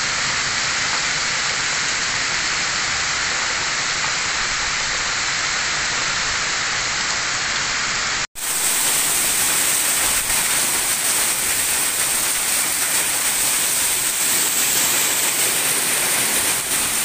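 Heavy rain pouring steadily, an even hiss. It cuts out for a split second about eight seconds in, then resumes slightly louder.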